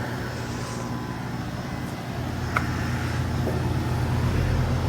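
Goodman heat pump outdoor unit running, a steady hum of its Copeland scroll compressor that grows louder toward the end, with one short click about two and a half seconds in.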